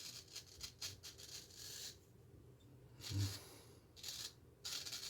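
Straight razor scraping through lathered stubble in a series of short, faint strokes, with a soft knock about three seconds in.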